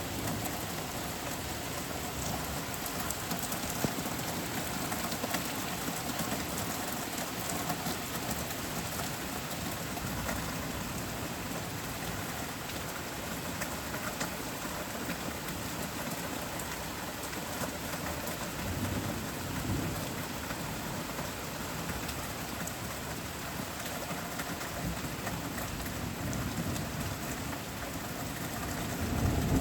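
Steady rain falling in a thunderstorm, an even hiss, with low rolls of thunder: one rumble about two-thirds of the way through and another building at the very end.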